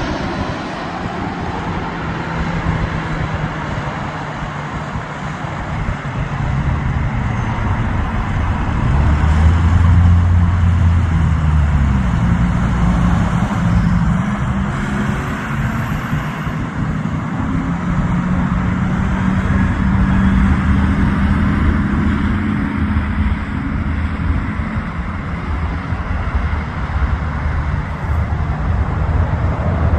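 Steady engine roar with low hums that shift slowly in pitch, growing louder about ten seconds in.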